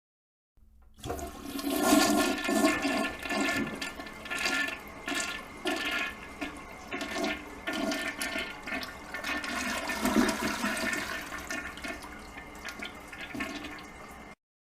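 Toilet flushing: a rush of water starting about half a second in, swirling and gurgling in uneven surges, easing slightly later on, then cutting off abruptly near the end.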